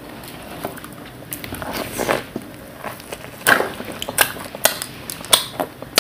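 Close-miked biting and chewing of a dabeli, a toasted bread bun with a spiced potato filling: wet mouth sounds with crackles. Sharp crunchy clicks come repeatedly from about halfway through.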